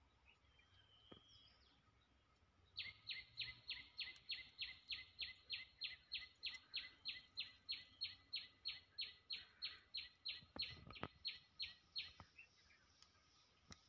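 A bird calling: a long, rapid series of short, evenly spaced notes, about three or four a second, each dropping in pitch. It starts about three seconds in and stops about two seconds before the end. A few faint knocks near the end, over faint outdoor background.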